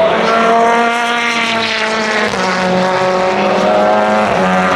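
Racing car engines passing at trackside, a steady engine note drifting slowly down in pitch, with another car's note taking over about two seconds in and again near the end.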